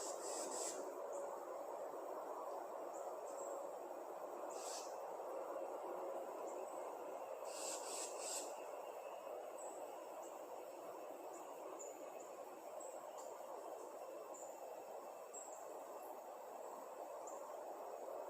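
Small birds chirping with short, high-pitched chirps scattered throughout, and a few louder bursts of calls about 5 and 8 seconds in, over a steady background rush.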